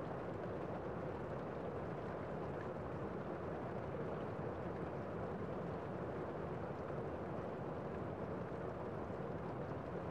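Gentle rain falling on a window, a steady, even wash of sound with no single drops standing out.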